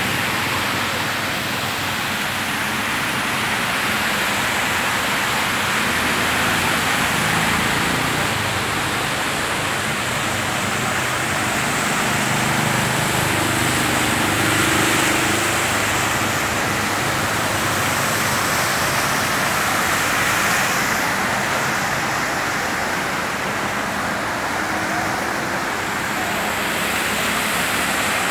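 Heavy rain falling steadily on a flooded road, with cars and motorbikes driving through the standing water, their tyres splashing and engines passing.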